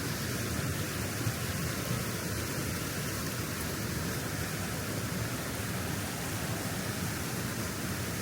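Steady rushing of the River Tees at Low Force waterfall, an even wash of water noise.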